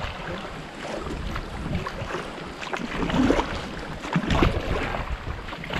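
Kayak paddles splashing and dipping in river water while backing up, with scattered knocks, a heavier thump about four seconds in, and wind on the microphone.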